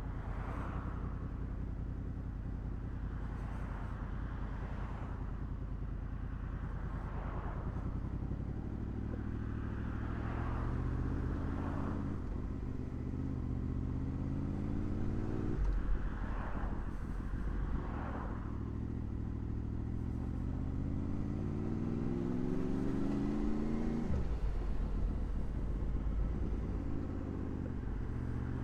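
Honda VFR800's V4 engine on the move, holding a steady note at first, then pulling hard up through the gears: the pitch climbs in long rises, each cut off by a gear change, three times. A rush of wind swells and fades over the engine.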